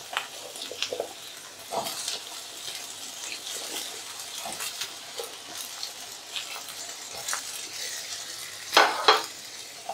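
Cut potatoes and sliced onion frying in mustard oil in a kadhai: steady sizzling, with a spatula stirring and scraping against the pan. A couple of louder scrapes come near the end.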